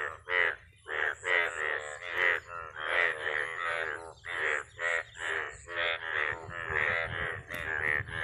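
Frogs croaking: a run of loud, rasping calls, one to two a second, with no break.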